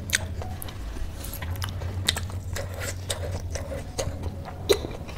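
Close-up chewing of food, with wet mouth clicks and scattered crunches and one sharp crack near the end, over a low steady hum.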